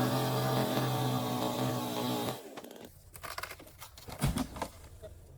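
Two-stroke chainsaw running at full throttle with a steady high engine tone, then dropping off sharply about two seconds in. A few scattered knocks and clicks follow over a faint low hum.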